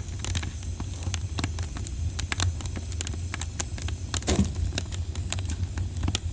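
Wood fire in a fireplace crackling, with irregular sharp pops and snaps over a steady low rumble of the flames. About four seconds in, a short sound slides down in pitch.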